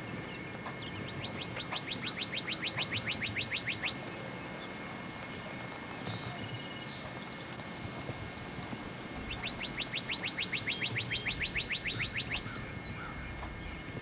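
A bird singing a rapid trill of about eight even notes a second, given twice, each about three seconds long.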